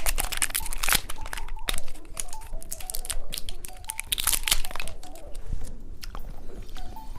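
Candy being unwrapped and eaten up close: a plastic wrapper crinkling and the candy crunching in quick, sharp, irregular crackles, with soft background music.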